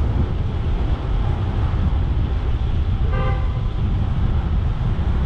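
Steady low rumble of street traffic and wind, with one short car-horn honk about three seconds in.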